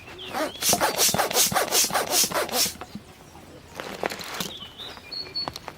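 Quick, repeated rubbing strokes, about four a second, for the first two and a half seconds, then softer, scattered handling sounds.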